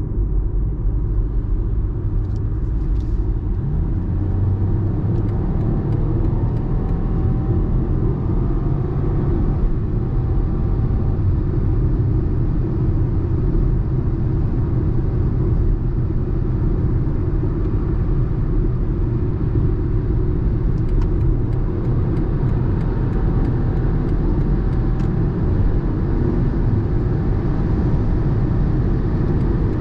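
BMW 118i (F40) driving at high speed: a steady low rumble of its turbocharged three-cylinder engine blended with tyre and wind noise.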